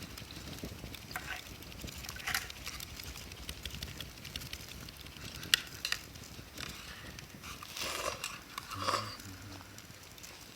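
Wood fire crackling, with scattered small pops and one sharp snap about five and a half seconds in. Two brief fuller noises come near the end.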